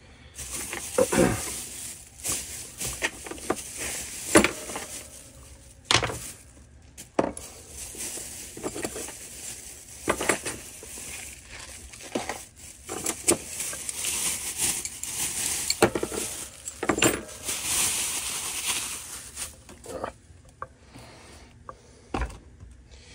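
Hands working on a string trimmer and handling tools: irregular metal clinks, knocks and clatters with stretches of scraping and rustling.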